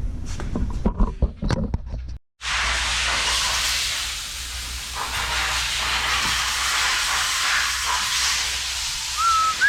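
A few sharp metallic knocks and clicks, then, after a brief break, air blowing out with a loud, steady hiss that keeps going. Near the end a whistled tone wavers over the hiss.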